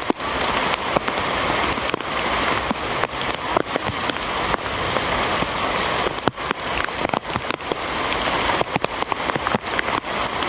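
Heavy rain falling steadily, with many sharp drop hits.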